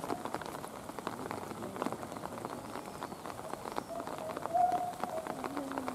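Rain falling, a steady patter of many drops over a soft hiss. About four and a half seconds in, a short pitched sound rises above it, and a lower pitched sound follows near the end.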